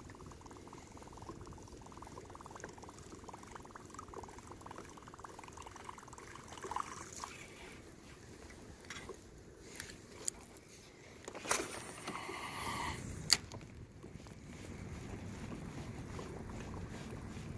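Water trickling and lapping around a kayak on a river, with a few sharp clicks and a brief louder rushing burst about two-thirds of the way through.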